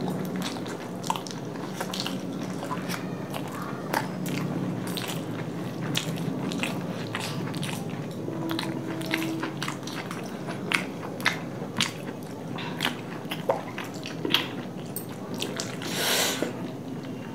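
Close-up eating sounds from big momos being eaten: wet chewing with many sharp lip smacks and clicks. A sip of water near the end.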